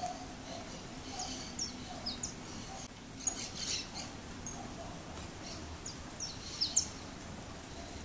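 Small birds chirping: short, high chirps, one at a time or in quick pairs, with the loudest couple near the end.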